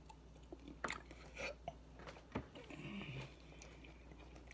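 Close-up chewing of fruit: soft, wet mouth noises with a few sharp smacking clicks.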